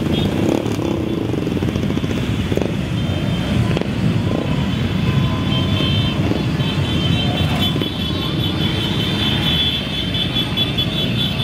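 Many motorcycle engines running in a steady, continuous rumble as a parade of motorcycles rides past.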